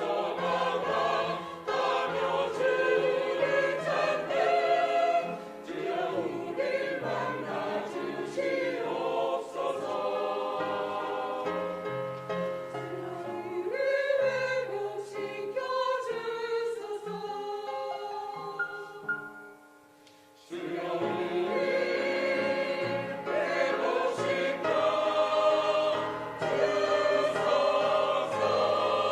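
Church praise team singing a worship song as a group, with steady low accompanying notes under the voices. The music drops out for about a second about two-thirds of the way through, then comes back in.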